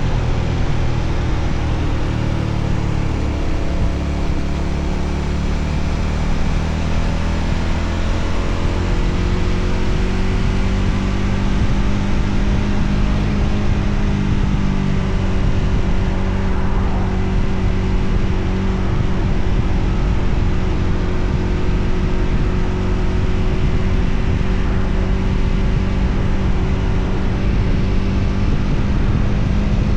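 Voge 300ACX single-cylinder motorcycle engine running under way, its pitch shifting a few seconds in and then holding steady, over a steady rush of riding noise.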